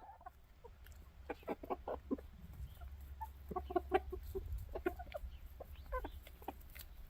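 A flock of chickens clucking, many short separate clucks from several birds starting about a second in, over a steady low rumble.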